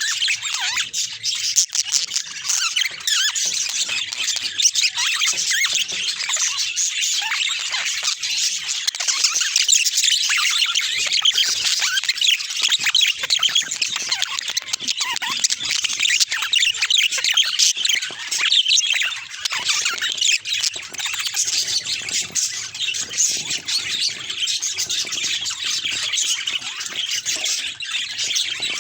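Budgerigars chattering: a dense, unbroken stream of high chirps and warbles.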